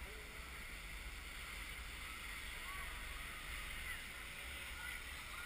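Steady outdoor water-park ambience: an even wash of distant water and crowd noise with a few faint far-off voices, over a low wind rumble on the microphone.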